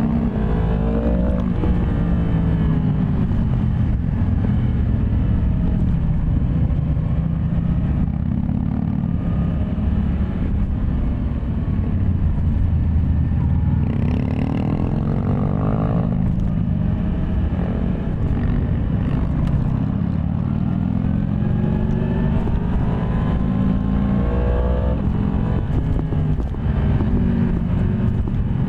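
Yamaha MT-10 SP's crossplane inline-four engine running under way, its pitch climbing and falling again and again as the bike accelerates through the gears.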